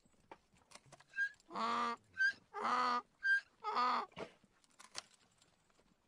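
Donkey braying: three hee-haw cycles in a row, each a short high squeak followed by a longer, louder, lower honk.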